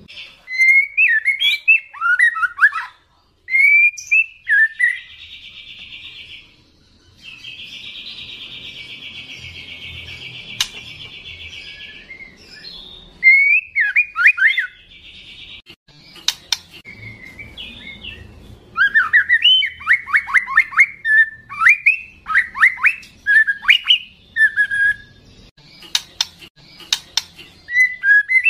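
Young white-rumped shama singing loudly in varied whistled phrases, broken by two long harsh buzzing chatters in the first half and rapid runs of down-slurred notes in the second half.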